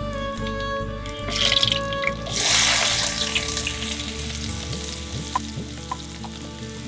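Hot oil sizzling in a clay pot as green chillies and chopped onions go in: a loud hiss starts about two seconds in and slowly dies down. Soft background music runs underneath.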